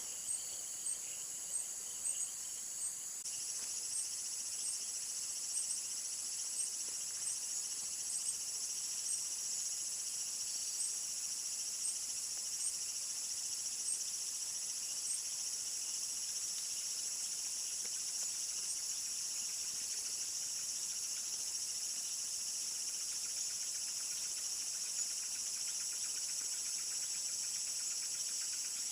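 Steady high-pitched drone of an insect chorus. A short high chirp repeats about twice a second at first, then comes only now and then.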